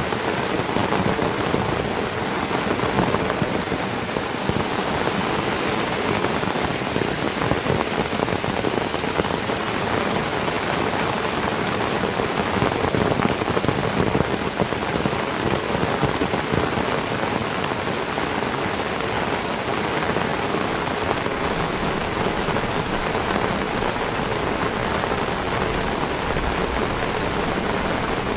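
Heavy tropical rain falling steadily, a dense, even patter of drops.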